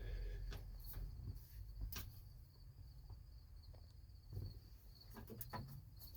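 Faint, steady high-pitched insect drone, with a few scattered clicks and knocks and a low rumble underneath.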